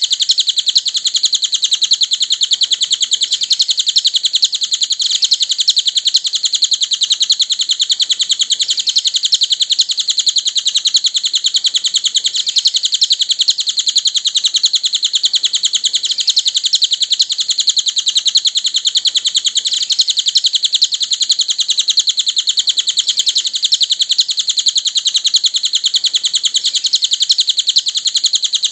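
Small songbird known in Indonesia as the cililin singing a continuous, very rapid, high-pitched chattering trill of chirps with no pauses.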